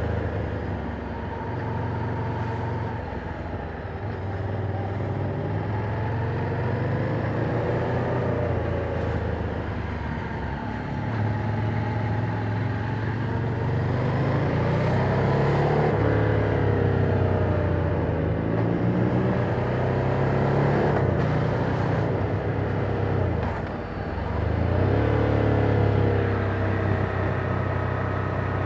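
Ducati Monster 797's air-cooled V-twin on its stock exhaust, ridden along, the revs climbing and falling back again and again as the bike accelerates, shifts and slows.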